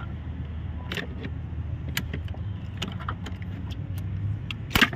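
Metal hand tools clicking and clinking against each other and the engine as an injector puller is handled and fitted, with a louder metallic clank near the end. A steady low hum sits underneath.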